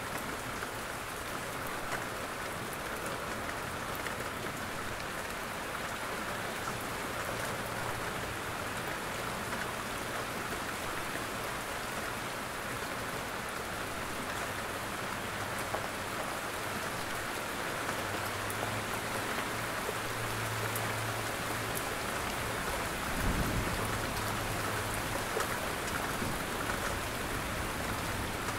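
Steady rain falling in jungle and on a roof, with single drops heard as sharp ticks through the hiss. A low thump comes about three quarters of the way through.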